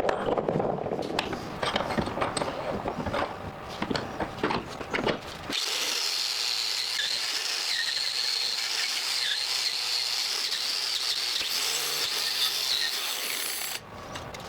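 Irregular scraping and knocking for about five seconds. Then a power tool starts abruptly on a railroad spike, a steady high hiss and whine that cuts off suddenly just before the end.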